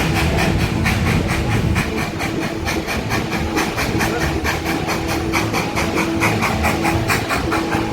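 Coal-fired steam locomotive No. 190, a 1943 Baldwin, working along with a quick, even chuffing exhaust, about five beats a second, heard from the train behind it. A steady humming tone comes and goes underneath.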